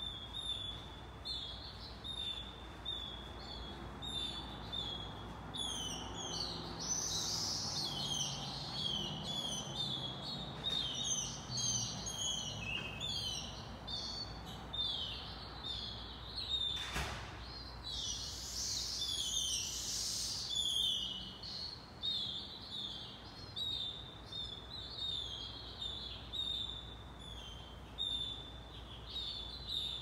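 Say's phoebes at the nest: short down-slurred chirps about two a second, swelling twice into louder, denser spells of high calls around 7 and 19 seconds in, the begging of nestlings ready to fledge. A single sharp click about 17 seconds in.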